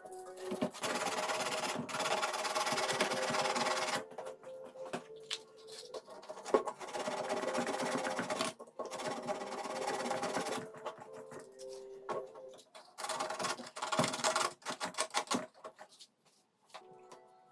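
A small motor-driven tool running in several bursts of one to two seconds, with short pauses between them.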